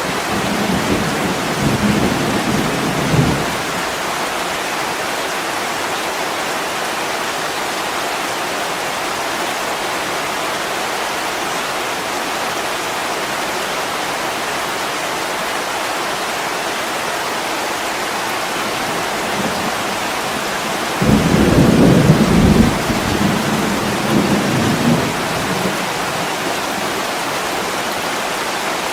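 Steady heavy rain pattering on a window pane, with deep rolls of thunder twice: one dying away about three seconds in, and a louder one starting about two-thirds of the way through and rumbling for some four seconds.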